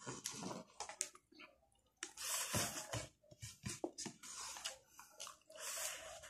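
Close, wet chewing and mouth noises of a man eating rice by hand, with short clicks and irregular noisy bursts.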